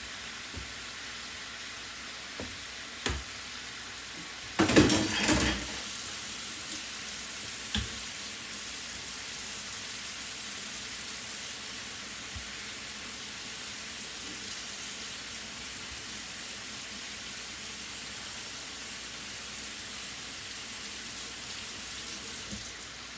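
Chicken sizzling steadily as it fries in a pan, with a few light clicks. About five seconds in there is a short loud rush of running tap water.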